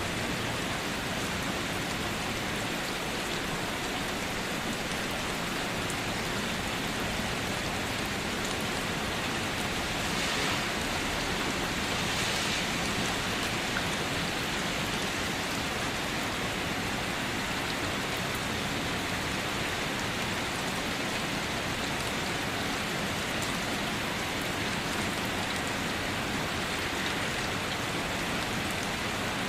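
Steady rain falling, an even hiss of many drops on surfaces, swelling slightly for a couple of seconds near the middle.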